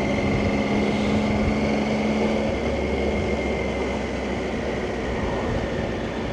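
Motorcycle engine running under way, with steady wind and road rush on a helmet microphone. About two and a half seconds in, the engine note shifts lower.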